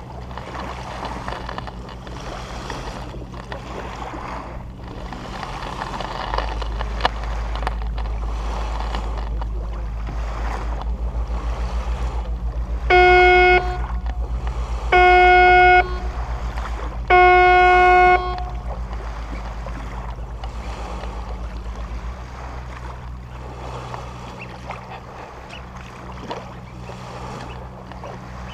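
A boat's engine running steadily with water noise, and its horn sounding three times in the middle, each blast a steady tone about a second long and louder than anything else.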